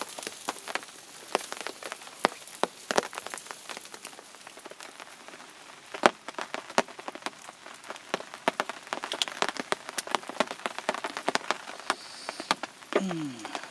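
Pacific saury grilling over charcoal, sizzling with a dense, irregular crackle of sharp pops as its fat spatters onto the coals.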